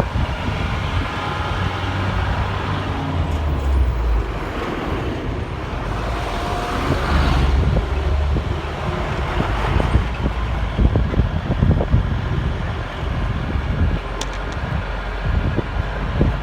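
Mini truck running along a road, heard from on board: a steady engine and road rumble with scattered knocks and rattles.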